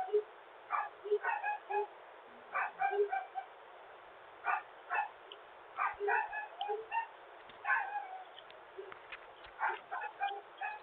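A dog barking over and over, short barks in ones, twos and threes with pauses of a second or so between. It comes through a Ring video doorbell's microphone, which makes the sound thin and narrow.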